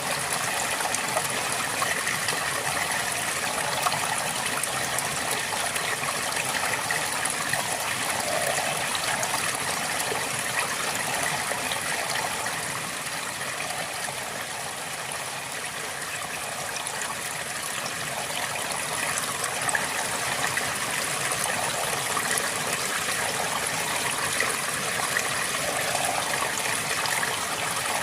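River water flowing steadily over rocks, a continuous rushing with small gurgles.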